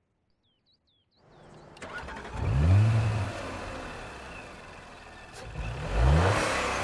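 Audi RS 5 Coupé engine revving twice, the pitch climbing quickly each time. The sound swells out of near silence about a second in, the first rev comes near the middle, and the second comes near the end.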